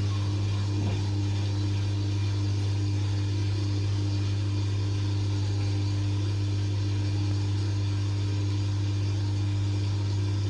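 A steady low hum, unchanging throughout, like a motor or electrical drone.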